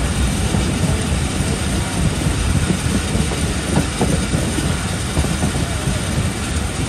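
Passenger train running along the track, heard from a coach door: a steady rumble of wheels on the rails and the moving carriage.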